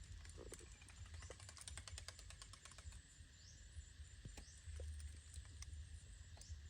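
Faint outdoor ambience: a low rumble with scattered small clicks, a brief run of rapid fine ticking about two seconds in, and a short high rising chirp repeating roughly every two seconds.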